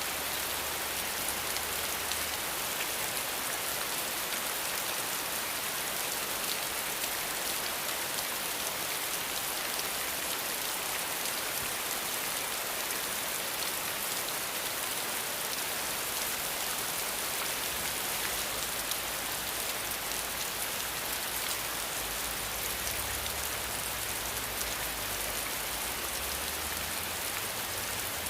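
Steady rain falling, an even, dense hiss of many drops with no let-up.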